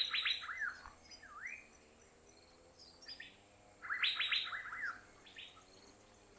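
Asian fairy-bluebird calling: a burst of quick, liquid notes at the start, a single swooping note, then a louder burst of quick notes about four seconds in. A steady high-pitched whine runs underneath.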